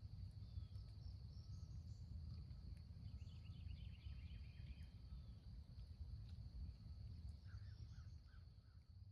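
Faint outdoor ambience: a low wind-like rumble with a steady high whine, and small birds chirping, a quick trill about three seconds in and a few short chirps near the end.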